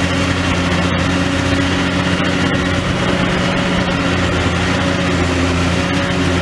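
Demolition excavator's diesel engine running steadily at a constant pitch.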